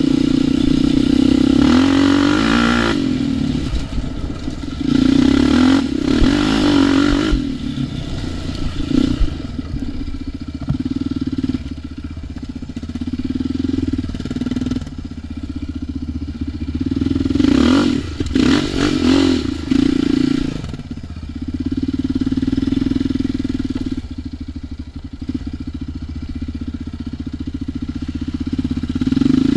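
ATV engine running on a trail ride, its revs swelling and easing off several times as it is throttled up and back.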